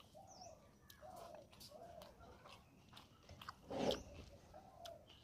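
Close-miked mouth sounds of eating katla fish curry, rice and saag by hand: wet clicks and smacks of chewing, with one louder smacking bite about four seconds in. Pigeons coo softly and repeatedly behind it.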